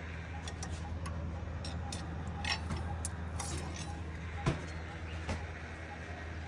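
A diesel engine running steadily, with several sharp metallic clinks and knocks over it; the loudest knock comes about halfway through.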